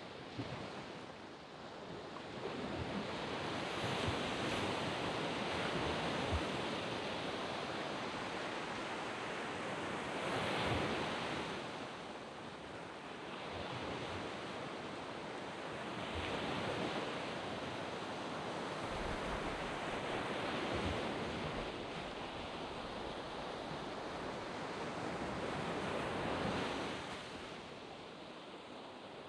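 Waves breaking and washing up a sand beach, the surf swelling and easing every few seconds, with some wind on the microphone.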